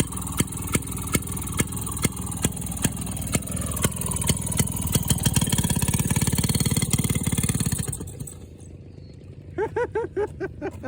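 Small single-cylinder minibike engine chugging slowly with sharp pops about three a second, picking up speed about four seconds in, then fading away around eight seconds as the bike pulls off. Short voices near the end.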